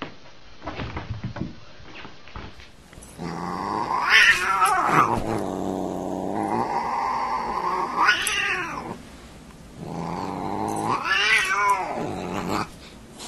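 Siamese cat growling low and steadily at a dog, breaking three times into long yowls that rise and fall in pitch: a threat display in a standoff.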